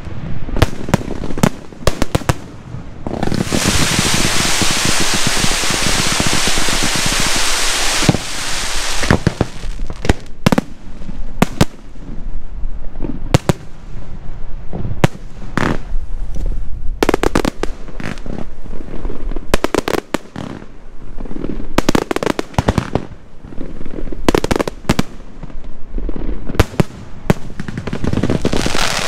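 Aerial fireworks shells bursting in quick succession. A dense run of crackling fills about three to nine seconds in, then separate sharp bangs follow every second or so.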